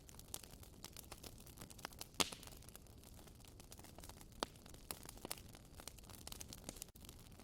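Wood fire in a fireplace crackling: many sharp pops and ticks at irregular intervals over a faint steady hiss, the loudest pop about two seconds in.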